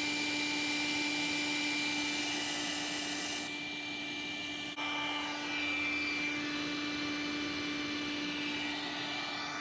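A small electric motor or blower running steadily, a hum and a high whine over a hiss, with a brief break about five seconds in.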